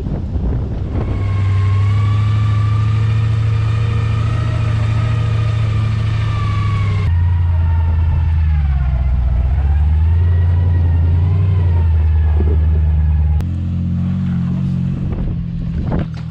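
Off-road vehicle engine running under load, its pitch slowly rising and falling, in a few short clips joined with abrupt jumps in tone.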